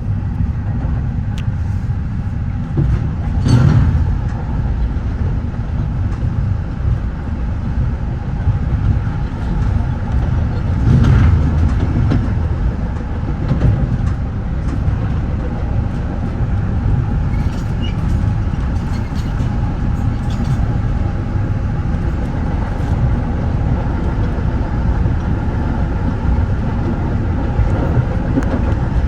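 Steady low rumble of a Metra bi-level commuter cab car rolling along the track, pushed by its locomotive, with a few louder knocks and jolts; the strongest come about three and a half and eleven seconds in.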